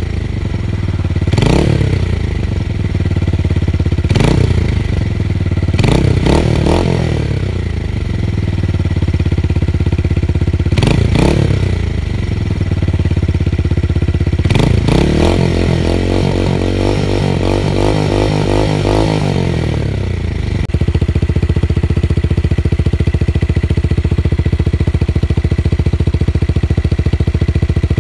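Tuned motorcycle engine with a bass-heavy exhaust note, blipped about six times, each rev rising quickly and falling back. It is then held up for several seconds with a wavering note, and near the end it abruptly gives way to a steady, even run.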